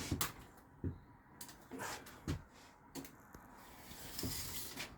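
A few light knocks and taps from handling tools and steel, then a short hiss near the end.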